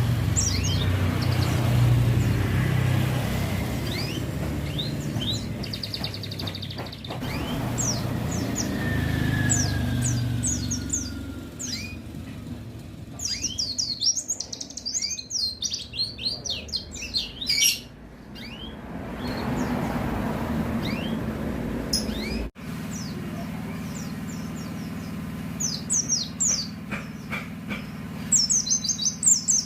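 White-eye (pleci) chirping and singing in quick runs of short, high notes. Road traffic rumbles by during the first twelve seconds or so.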